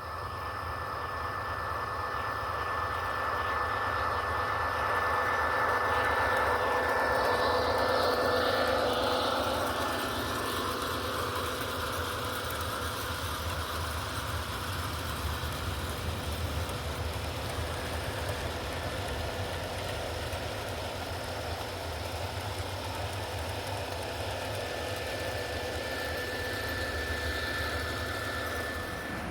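O scale MTH model diesel locomotive running with a freight train: a steady low hum of motor and wheels on the track, mixed with the locomotive's onboard diesel engine sound effects. It grows louder about six to nine seconds in as the train passes closest, then holds steady.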